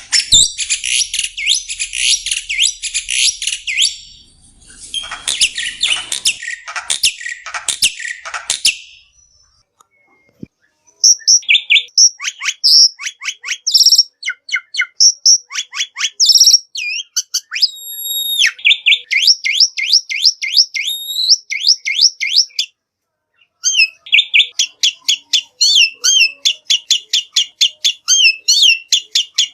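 Black-winged myna (jalak putih) singing: harsh, raspy chattering for the first several seconds, then after a short pause a long run of loud, varied whistles and chirps, broken once more briefly.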